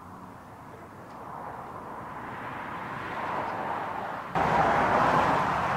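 Train approaching at speed: a rushing wheel-and-rail noise that swells steadily louder, then jumps up sharply about four seconds in.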